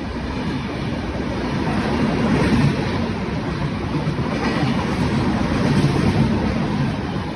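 Passenger train of LHB coaches running past at speed: wheels rumbling and clattering on the rails, growing louder in the middle and easing near the end.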